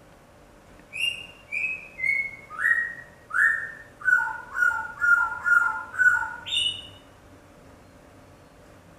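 A bird calling: about a dozen short notes that first step down in pitch, then alternate between a higher and a lower note, and end with one higher note near the end.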